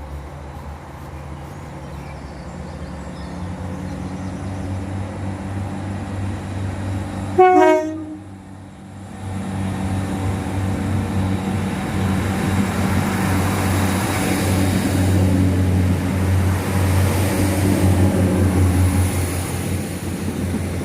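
NI Railways Class 3000 diesel multiple unit departing: its engines run with a low drone and give one short horn blast about seven seconds in. The engines then grow louder as the train pulls away.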